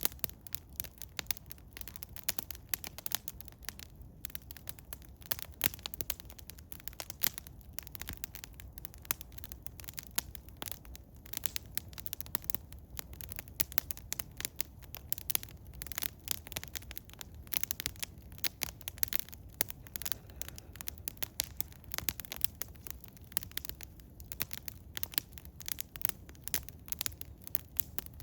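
Wood fire of eastern hemlock crackling, with dense, irregular pops and snaps, many per second, and no let-up.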